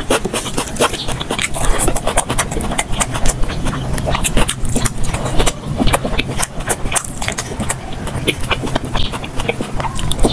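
Close-miked mouth eating sounds played at double speed: a dense, fast run of wet chewing clicks and lip smacks over a low steady hum.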